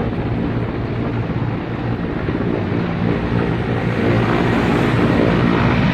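An engine running steadily, its low hum under a loud rushing noise.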